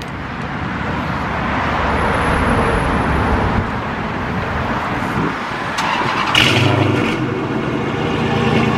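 Dodge Charger's newly modified exhaust, now split into two flows out of four tips, running loud; the sound builds over the first couple of seconds and a deep low drone comes in about six seconds in.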